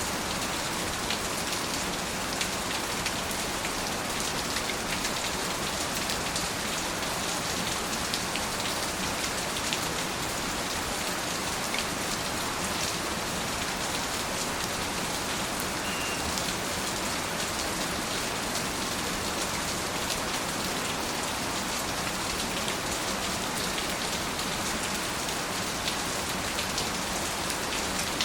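Steady rain falling, an even hiss flecked with the ticks of individual drops striking surfaces.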